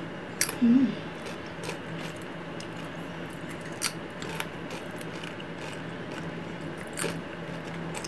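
Mouth chewing a cheese-dipped Flamin' Hot Doritos tortilla chip: a few sharp, scattered crunches over several seconds, with a short vocal "mm" about a second in. A faint steady low hum runs underneath.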